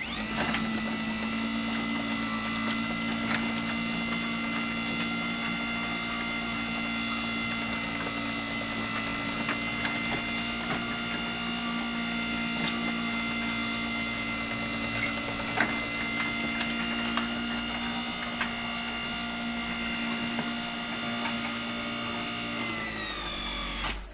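Genie Silentmax 1000 side-mount garage door opener, a 3/4 horsepower motor unit, running steadily with a smooth whine while it drives the garage door through its travel, with light clicks from the moving door. Near the end it slows, its pitch falling, and stops.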